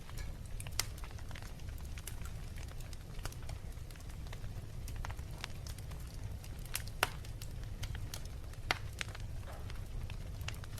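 Wood fire burning in a fireplace, crackling with scattered sharp pops, the loudest about seven seconds in, over a steady low rumble.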